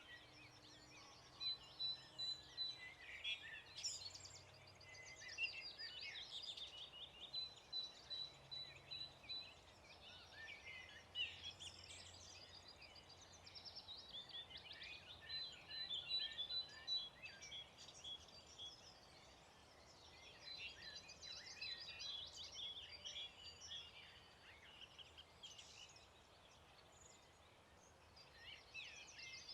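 Several songbirds singing at once in a faint dawn chorus, with overlapping whistles and trills. One bird holds fast runs of a single repeated high note for several seconds at a time.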